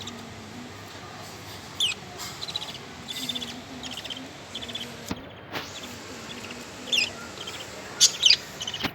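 A 20-day-old budgerigar chick chirping in short, scattered high calls, some in quick pulsed runs, with the loudest pair of calls near the end.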